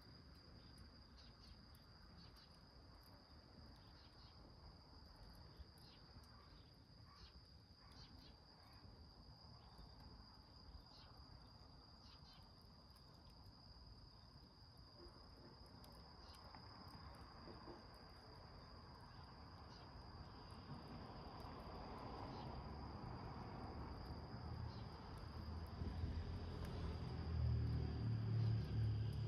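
A cricket's steady high trill over scattered small crackles and pops from a fire burning in a can. In the last ten seconds or so a low rumble builds and grows louder.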